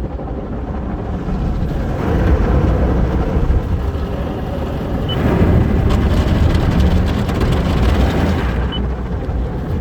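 Car wash running steadily with a low rumble, and a harder hiss from about five to nine seconds in.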